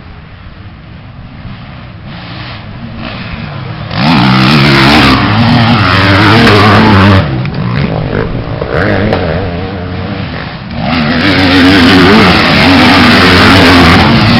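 Motocross bike engines revving as the bikes race past, rising in pitch and falling off with the gear changes. They grow louder over the first few seconds and become very loud about four seconds in. They ease off a little around the middle, then turn very loud again for the last few seconds.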